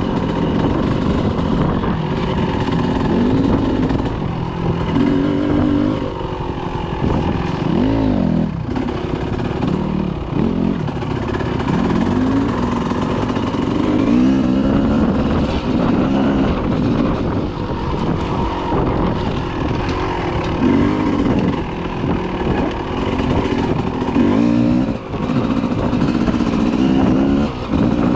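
Dirt bike engine running continuously, its pitch rising and falling again and again as the throttle is opened and eased off.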